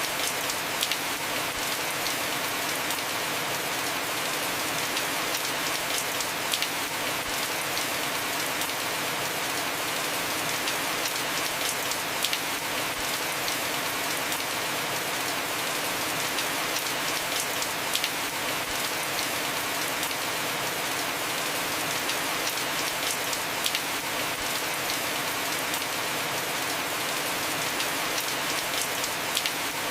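Heavy rain falling steadily on a house roof: an even hiss of rain with scattered louder drop hits.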